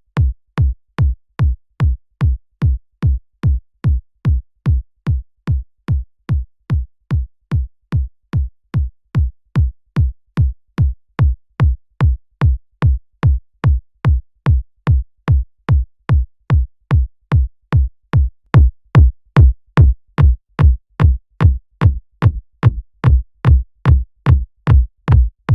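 Synthesized electronic kick drum looping on its own in a steady four-on-the-floor pattern, about two hits a second, each a short click followed by a low thump that drops in pitch. The kick gets louder about two-thirds of the way through as processing is adjusted.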